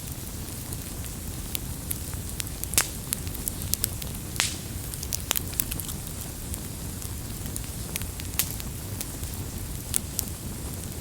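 Wood campfire crackling: irregular sharp pops and snaps over a steady low rumble of burning flames, with the loudest pop about three seconds in and a brief hiss a little later.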